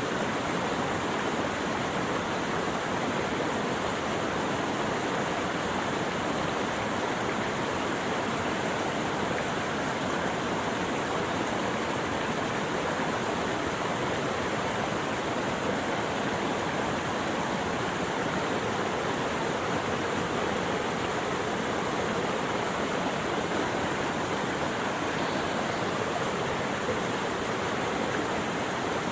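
Steady, unbroken rush of flowing water, even in level throughout.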